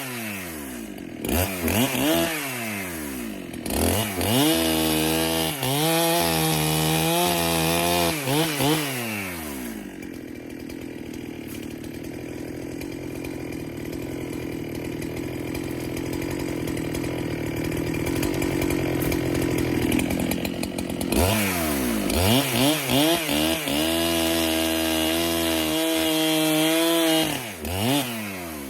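Neotec NH895 two-stroke chainsaw, a Husqvarna 395 clone, cutting white oak: the engine revs up and down in bursts, runs for a long steadier stretch in the middle, then revs up and down again near the end.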